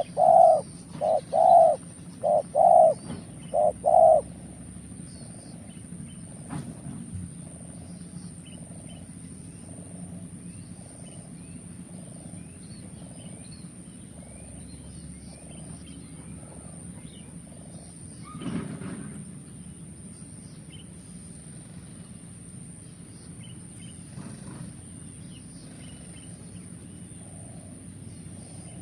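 Spotted doves cooing: a loud run of coo notes for the first four seconds, then fainter coos repeating about once a second. Small birds chirp faintly throughout, and there is a brief rustling noise about eighteen seconds in.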